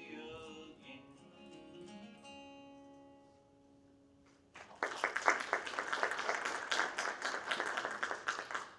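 An acoustic string band's closing notes ring out and fade on a final held chord, then about five seconds in an audience breaks into applause, louder than the music before it.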